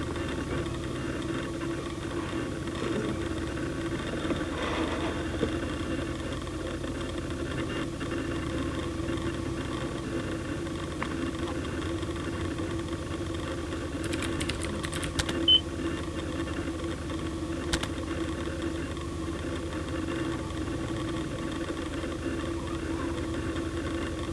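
A steady low hum with a faint held tone, broken about two thirds through by a short run of clicks and, a little later, one more click.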